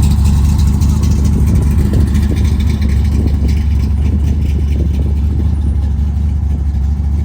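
Car engine running steadily with a low, even drone.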